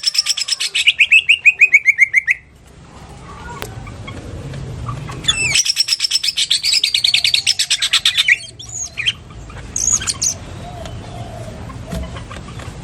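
Green leafbird (cucak ijo) singing a lovebird-style 'ngekek': a long rapid chattering trill of about ten notes a second that falls in pitch, a pause, then a second long trill, followed by a few short sharp calls.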